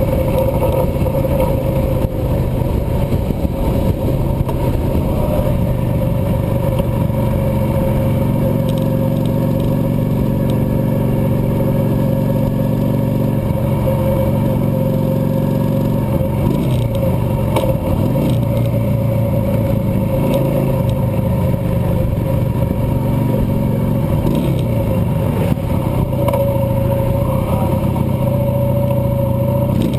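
Cruiser motorcycle engine running steadily while riding. Its pitch steps up and down a few times as the speed changes.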